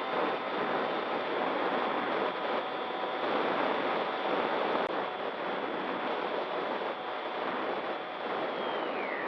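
RC model plane's motor and propeller whining at a steady pitch over a rush of wind noise, the whine falling in pitch near the end as the throttle is eased back.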